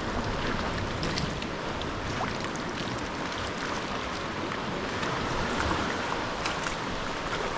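Sea water sloshing and splashing around a sea kayak: a steady wash with many small splashes and drips.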